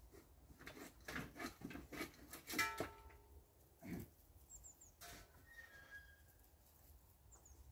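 Faint small-bird chirps, short and high, with scattered clicks and knocks in the first three seconds and a louder pitched call about two and a half seconds in.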